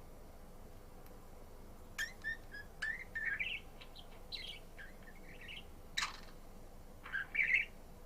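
Budgerigar chirping in short, quick runs of chirps that start about two seconds in, with a sharp click about six seconds in and a louder burst of chirps near the end.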